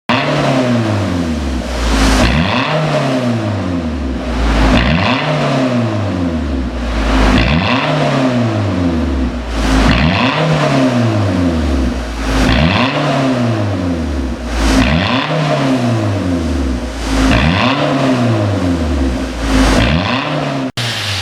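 Kia New Morning's small three-cylinder engine blipped through an aftermarket single variable-valve exhaust, revved in repeated blips about every two and a half seconds. Each rev jumps up sharply and then falls slowly back toward idle.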